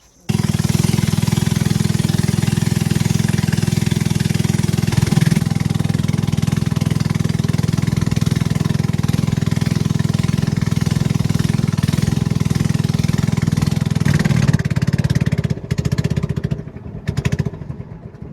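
A boat's engine running loud and steady close by. About fifteen seconds in it drops in level and turns uneven, then fades out near the end.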